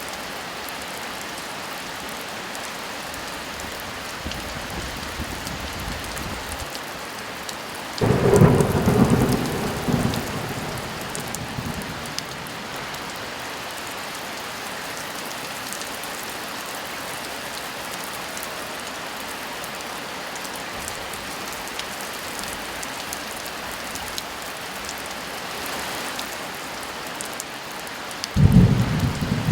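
Steady heavy rain with two thunderclaps: a sudden low rumble about eight seconds in that dies away over several seconds, and another that breaks out near the end.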